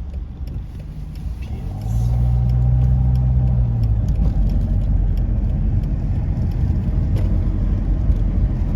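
Car engine and road noise heard from inside the moving car. It gets louder about two seconds in, with a low steady engine hum for a couple of seconds, then a steady rumble.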